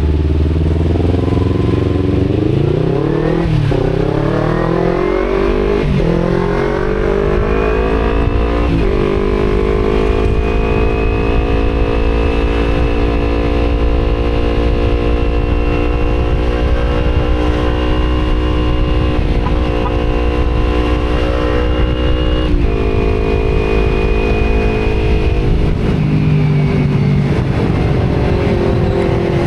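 Kawasaki Z250 parallel-twin engine through an Akrapovic exhaust, accelerating hard through the gears: the pitch climbs and breaks at three upshifts in the first nine seconds. It then holds steady at high revs, drops back about two-thirds in, and falls off near the end as the rider eases off. Wind rumble runs underneath.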